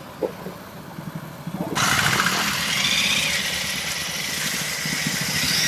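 Several motorcycle engines running at idle with a steady low pulse. The sound jumps much louder and fuller about two seconds in.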